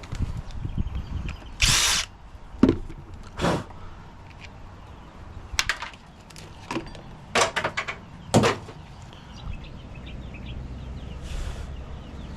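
Scrap parts and debris being handled around a fridge compressor: a run of separate knocks and clatters, with a short scraping rustle about two seconds in and a fainter one near the end.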